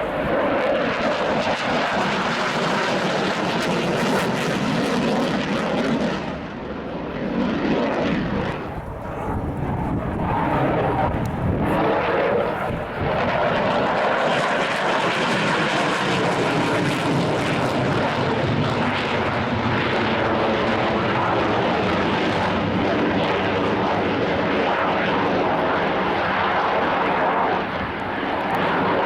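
Jet noise from a MiG-29A Fulcrum's twin RD-33 turbofans during a flying display, loud and continuous with a few brief dips in loudness as the aircraft manoeuvres.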